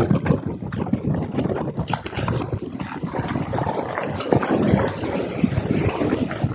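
Blizzard wind gusting hard against the microphone, an uneven rumbling buffet that rises and falls throughout.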